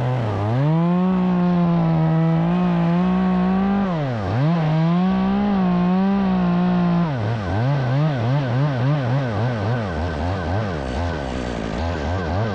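Two-stroke chainsaw held at full throttle and cutting through the tree's top, its pitch high and steady apart from a brief dip about four seconds in. About seven seconds in it drops off the cut and the revs waver up and down.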